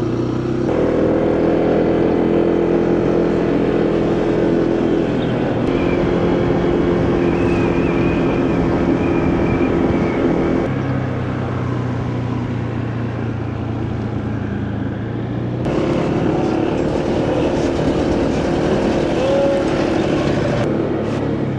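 Motorcycle engine running steadily on the move, with wind and road noise. The engine note drops about halfway through and picks up again a few seconds later.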